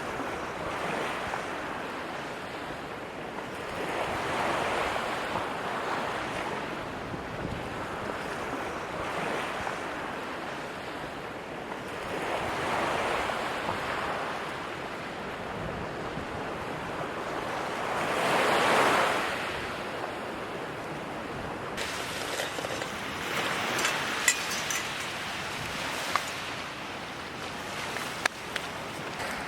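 Ocean waves breaking on the shore, the surf swelling and falling back every four to five seconds, the biggest surge about two-thirds of the way through. A few sharp clicks come near the end.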